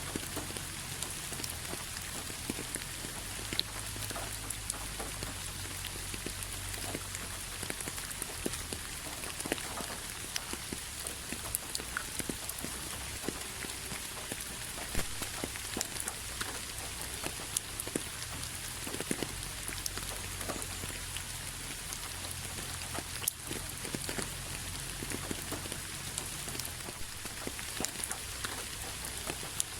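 Steady rain falling, an even hiss with many separate drops ticking and splashing on hard surfaces, over a low steady rumble.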